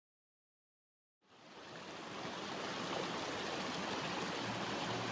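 Headwater mountain stream rushing steadily, fading in from silence about a second in.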